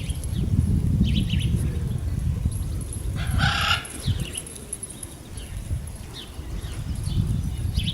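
Birds calling in short falling chirps, with one brief burst of wing flapping about three and a half seconds in, over a steady low rumble.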